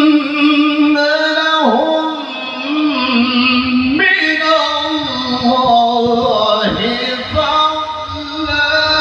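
A man's voice in melodic Quran recitation (tilawah), holding one long ornamented note with no words, its pitch wavering and sliding down and up several times.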